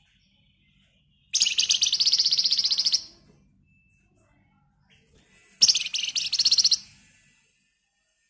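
Flamboyan (wergan Jawa) songbird giving two fast, dense trills, the rattling 'ngebren' song. The first lasts about a second and a half and the second, starting a few seconds later, about a second.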